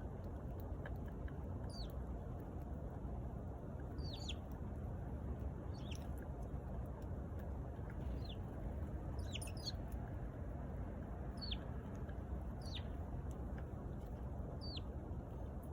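Eurasian tree sparrow chirping: single short chirps that slide down in pitch, repeated irregularly about every one to two seconds, over a steady low background noise.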